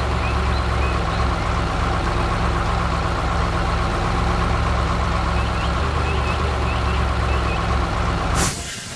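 Heavy construction-vehicle engine running steadily with a low rumble, as a cartoon sound effect, with a few faint high chirps over it. Near the end comes a short rush of noise, and the engine sound fades away.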